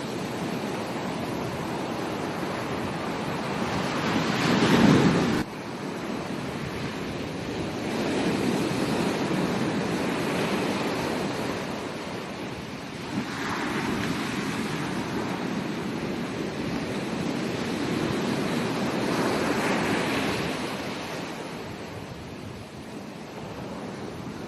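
Ocean surf breaking on a beach, a steady rushing that swells and eases every few seconds as waves come in. The loudest rush comes about four to five seconds in and cuts off suddenly.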